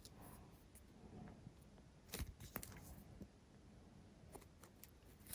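Quiet room tone with a few light clicks and taps from handling parts on a workbench, the loudest a short cluster about two seconds in.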